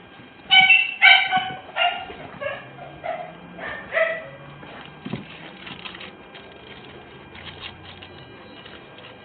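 Small dog barking: about seven short, high-pitched yaps in the first four seconds, the first two the loudest.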